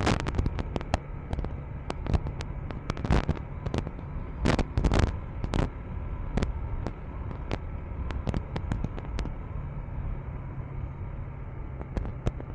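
KTM 390 Enduro R's single-cylinder engine running steadily on a sandy dirt road, with many sharp, irregular clicks and knocks over it, the loudest a few seconds in.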